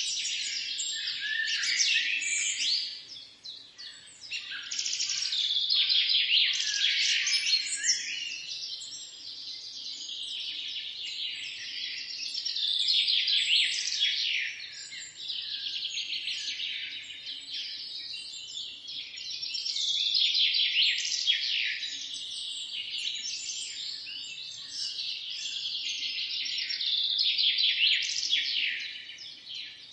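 Several small songbirds singing and chirping at once, a dense chorus of rapid high trills and twitters that swells and fades in waves, dipping briefly about three seconds in.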